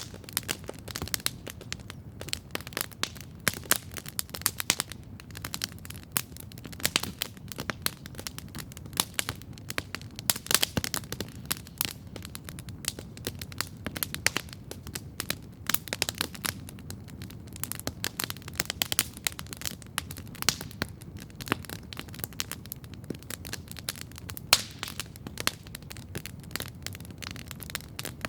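Wood campfire crackling steadily, with many irregular sharp pops and snaps over a low, steady rush.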